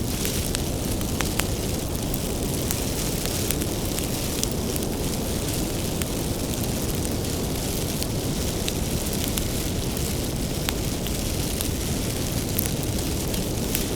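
Bonfire of firewood burning with a steady low rumble of flames and scattered sharp crackles and pops from the wood.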